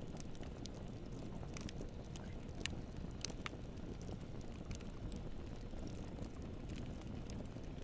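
Bonfire burning: a steady low rush of flames with irregular crackles and pops of burning wood, a few sharper pops a little before the middle.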